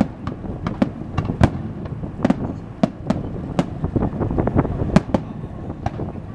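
Fireworks display: many sharp bangs and crackles from bursting shells, coming in quick, irregular succession.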